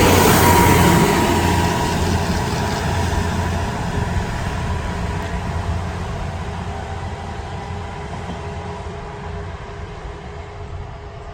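KiHa 110 series diesel railcar train passing close by, loudest at the start, then fading steadily as it moves away, its diesel engine drone and wheel noise dying down.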